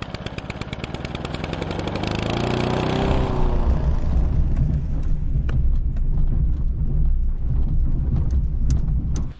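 Engine running with a rapid, even pulsing of about ten beats a second that changes around two to three seconds in into a steady low rumble, as a vehicle gets under way.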